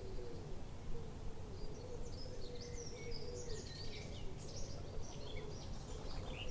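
Small songbirds chirping and twittering outdoors, the calls starting about a second and a half in, over a steady low background rumble and a faint wavering hum.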